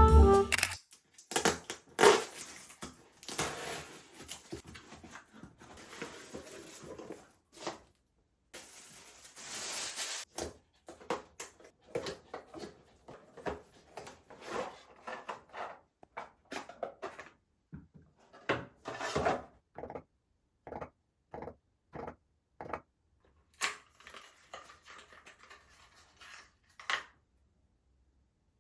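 Close household handling sounds: a string of light knocks and clicks of objects being set down and moved, with a few stretches of rustling.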